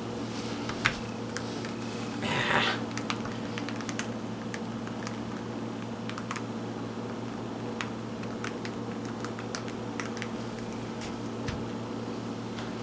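Scattered light clicks and ticks at irregular intervals, with a short rustle about two and a half seconds in, over a steady low electrical hum.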